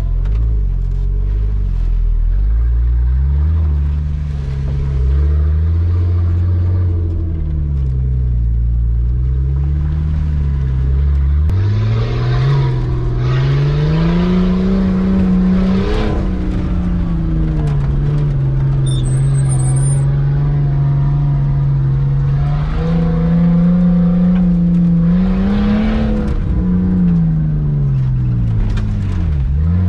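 Nissan RB25 turbo straight-six in a Nissan Patrol Y60 running under load, heard from inside the cab. It runs low and uneven at first, revs up sharply about twelve seconds in, holds steady, climbs again later, then drops off just before the end.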